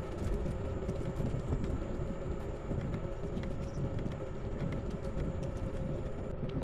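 Steady low rumbling road and wind noise from a moving bicycle, with a few faint clicks and rattles.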